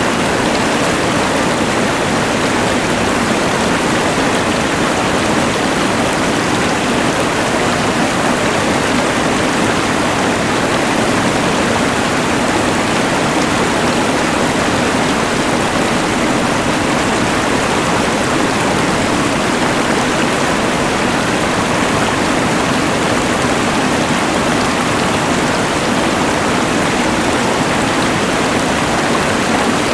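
Rushing mountain river mixed with the hiss of a LectroFan white noise machine, a dense, even wash of noise that holds perfectly steady with no breaks or changes.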